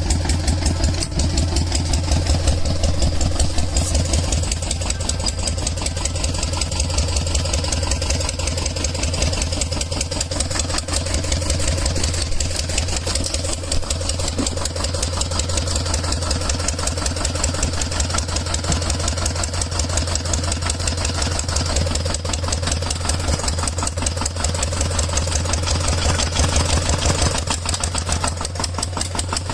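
An engine running steadily with a fast, even chugging pulse.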